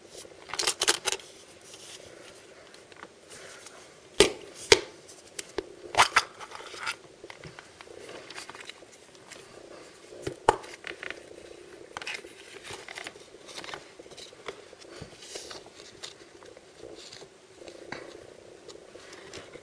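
Surprise-toy packaging being handled and opened by hand: crinkling and rustling of the wrapping, with tearing and a handful of sharp snaps and crackles, the loudest about four, five, six and ten seconds in.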